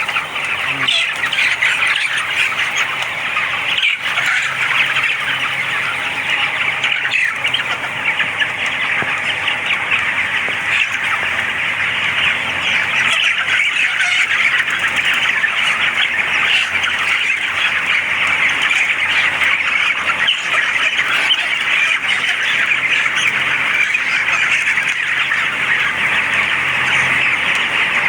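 A large flock of poultry chicks peeping continuously, many overlapping high-pitched calls.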